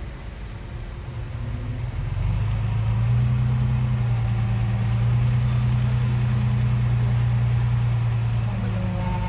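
Heavy diesel engine of earthmoving equipment running. It comes up under load about two seconds in, holds a steady low drone, and eases off a little near the end.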